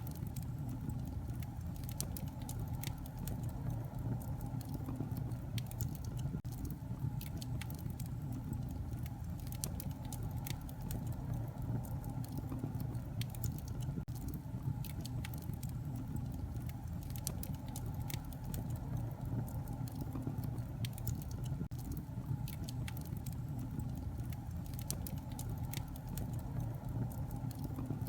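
Wood fire burning in a fireplace, crackling with many small irregular pops over a steady low rumble of the flames.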